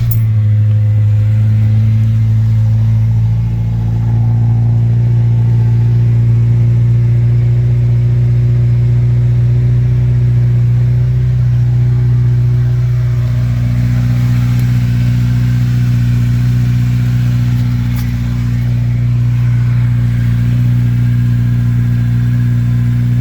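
Honda Integra Type R (DC5) four-cylinder engine idling steadily through a newly fitted Spoon N1 exhaust on its first start, with the idle note shifting slightly about 13 seconds in. No exhaust leak can be heard by the owner.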